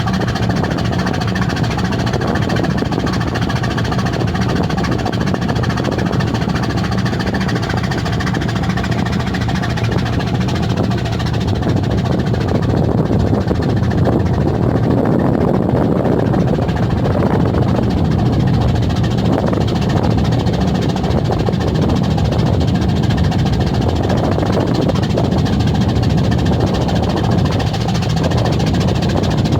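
A ship's engine running, a steady low drone with vibration, that gets a little louder about halfway through.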